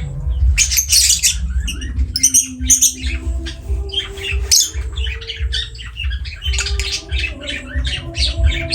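Lovebirds squawking in a rapid, unbroken string of short, shrill calls.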